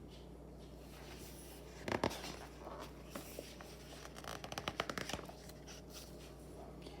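Paper pages of a picture book being handled and turned: a sharp knock about two seconds in, then a quick run of papery rustles a little past the middle.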